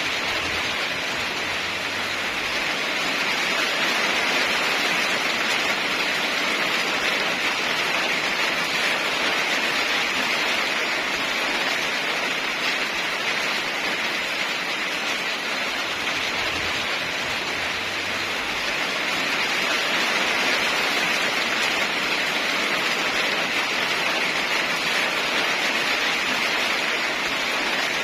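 Heavy, steady rain: a dense, even hiss of downpour that swells slightly a few seconds in and again about two-thirds of the way through.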